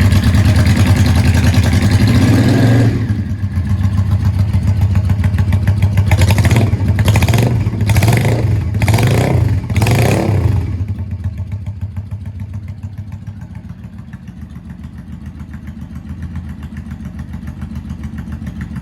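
Yamaha DragStar 400's V-twin engine through an aftermarket full exhaust: held at raised revs, dropping back after about three seconds, then blipped about five times in quick succession before settling into a steady idle.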